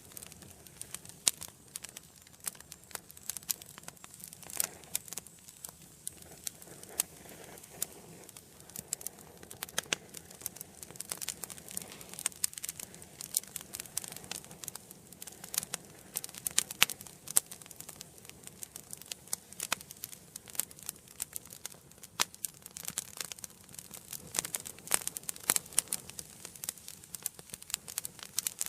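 Wood fire burning in an indoor fireplace, crackling and popping irregularly with sharp snaps over a soft steady hiss.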